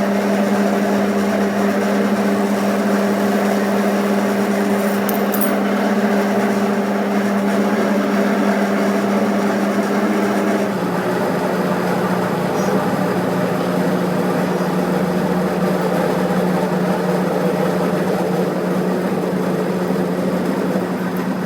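A workshop machine running steadily: a constant hum under a rough, hissing noise, the hum dropping slightly in pitch about ten seconds in.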